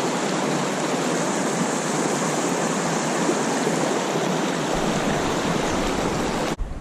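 Steady rush of flowing creek water that cuts off abruptly near the end.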